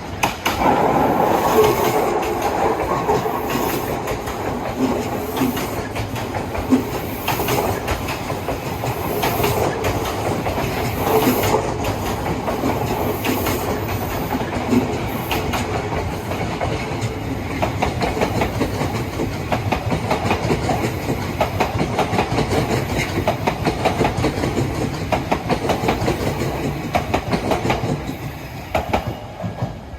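Odakyu Line electric train passing over a level crossing, its wheels clacking over the rail joints in a long run of clicks. It starts abruptly and fades near the end.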